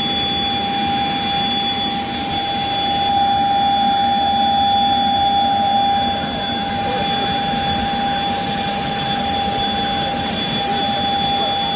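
Jet aircraft engine running steadily: a constant high whine over a loud, even rush of noise.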